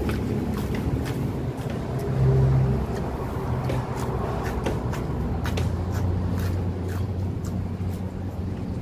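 Close-up eating sounds, with crunching and smacking as raw lettuce and greens and rice are chewed in short crisp clicks. Under them runs a steady low rumble of road traffic.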